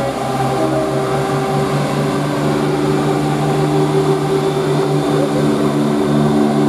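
CrossCountry Class 170 Turbostar diesel multiple unit pulling away under power, its underfloor diesel engines running with a steady drone of several held tones.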